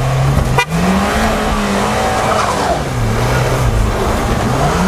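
Ford Kuga 1.5 Turbo's engine revving hard with its traction and stability electronics switched off, so it runs free instead of being held back, as the front tyres spin and churn through deep snow on a climb. The revs rise about a second in, drop back about three seconds in and rise again near the end.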